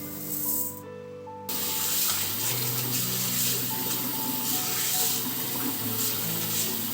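Water running steadily from a tap into a sink, coming on suddenly about a second and a half in, over background music with held notes.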